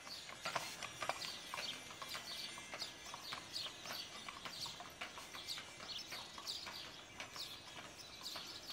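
Small birds chirping: many short, high, falling chirps, several a second, over scattered light clicks.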